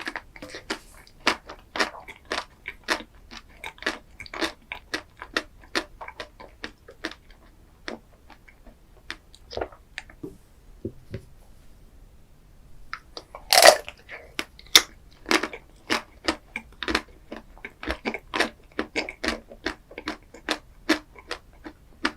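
Close-miked eating of a chocolate ice cream dessert: crisp, crackly bites and wet chewing clicks in an irregular stream, with one loud crunching bite just past the middle after a brief lull.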